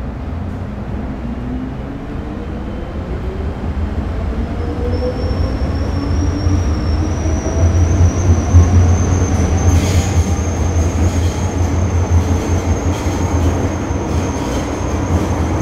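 A train running and gathering speed: a steady low rumble under a whine that rises in pitch, and a high, steady squeal coming in about a third of the way through. It grows louder throughout.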